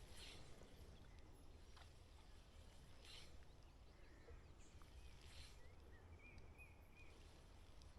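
Near silence: faint outdoor ambience with a low rumble, a few faint bird chirps and a short warbling bird call near the end, and a few soft swishes.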